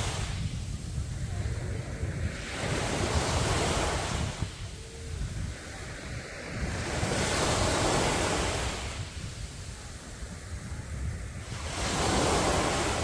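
Sea waves breaking on a beach: three surges of surf, each swelling up and falling back about every four to five seconds, over a constant low rumble.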